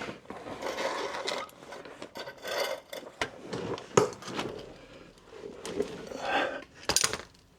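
A 10mm socket wrench loosening the bolts of a truck's skid plate: irregular scraping and rubbing of metal on metal, with a few sharp clicks, the loudest near the end.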